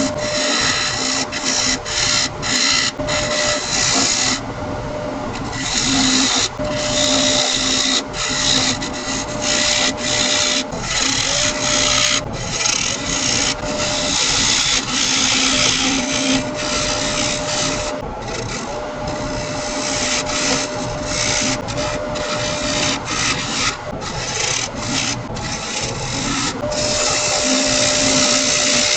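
Wood lathe running with a steady whine while a turning tool cuts a spinning laminated-wood blank, a loud scraping hiss that starts and stops every second or so as the tool touches and leaves the wood.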